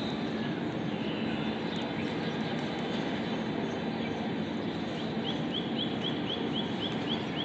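Budgerigar chirping over a steady background of noise and low hum; about five seconds in, a rapid series of short rising chirps starts, about four a second.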